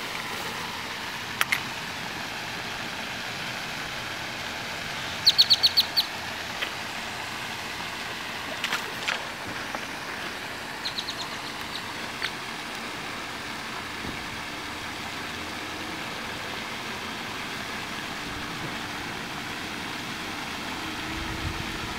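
Birds chirping over a steady background noise: a quick run of about five sharp, high chirps about five seconds in, and a few fainter short chirps later.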